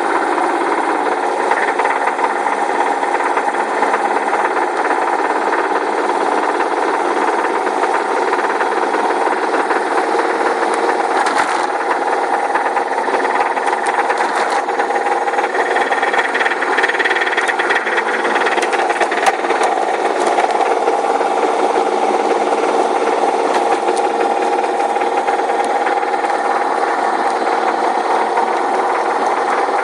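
Subaru WRX's turbocharged flat-four engine running with a steady, rapid knocking rattle: rod knock from a failed connecting-rod bearing.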